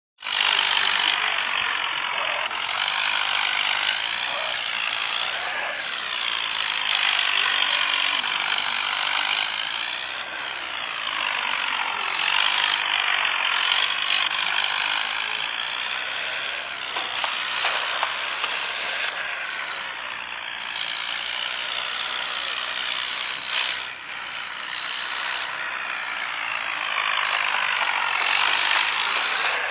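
John Deere tractor running steadily.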